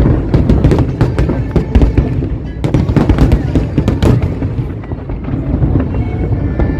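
Fireworks bursting in quick, irregular succession, with many sharp bangs close together, over a steady bed of music.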